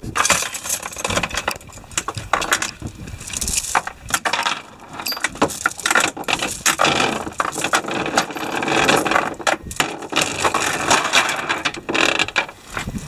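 Anchor chain paying out over the stern of a boat as the anchor is deployed: a dense, irregular metallic clatter of links that comes in surges, dipping briefly about four and seven seconds in.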